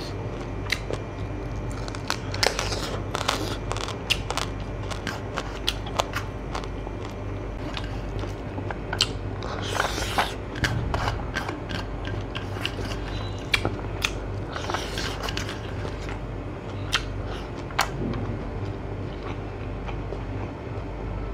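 Close-up chewing and eating sounds of a person eating rice and smoked pork by hand, with many sharp, irregular clicks over a steady low hum.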